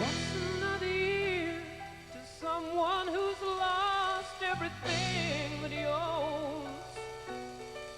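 Live pop-ballad band in an instrumental break: a saxophone plays a lead melody with wide vibrato over sustained backing chords.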